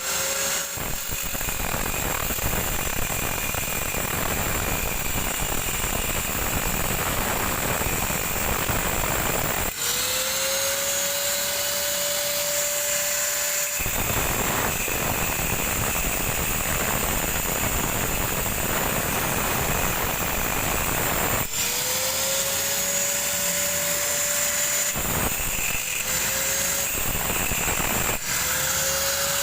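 Angle grinder cutting into the steel shell of a refrigerator compressor: a loud, rough cutting noise, broken several times when the disc lifts off the cut and the motor's whine rises back up to a steady pitch.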